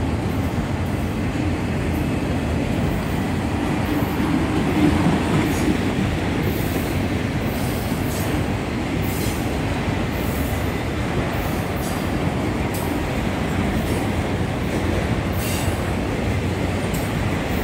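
Autorack freight cars rolling slowly past on steel rails: a steady rumble of wheels, with light clicks at uneven intervals.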